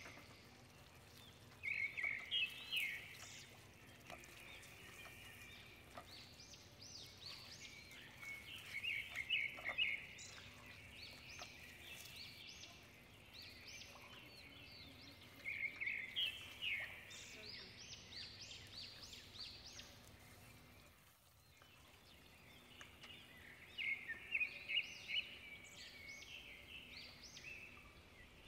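A songbird singing short phrases of quick, high, rising notes, repeated about every seven seconds, over a faint steady hum.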